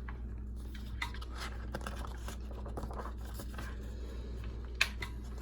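Paper picture book being handled and its page turned: soft rustling and scraping, with one sharper tap near the end, over a steady low hum.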